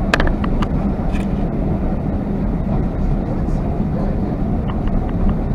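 Steady low rumble of a moving vehicle heard from inside it, with a constant hum and a few light clicks just after the start.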